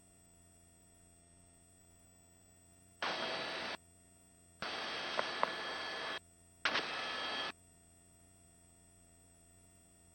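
Helicopter cabin noise passed through the headset intercom in three bursts of steady hiss, each switching on and off abruptly as a headset microphone's voice gate opens and shuts, with a couple of small clicks in the middle burst. Between the bursts the gated intercom carries only a faint steady electronic hum.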